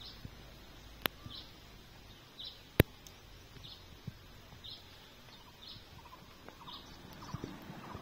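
Birds calling: one repeats a short high call about once a second, and from about halfway through a lower, chattering call joins in. Two sharp clicks cut in, the louder one a little under three seconds in.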